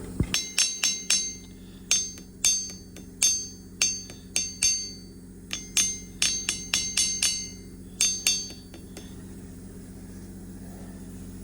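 Hammer tapping on a metal part of a truck steering column during its overhaul. About twenty ringing metal-on-metal strikes come in short irregular runs and stop a little past two-thirds of the way through, over a steady low hum.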